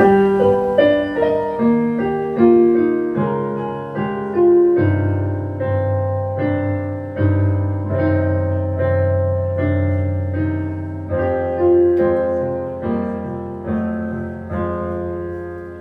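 Solo piano playing a slow instrumental passage: chords and single notes struck about once a second and left to ring, with deep bass notes entering about five seconds in.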